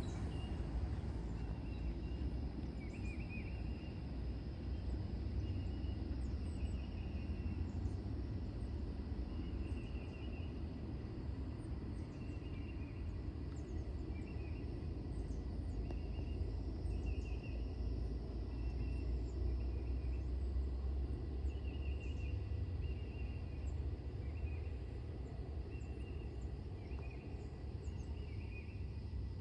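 Outdoor ambience: a steady low rumble with a small bird repeating short chirping trills every second or two throughout.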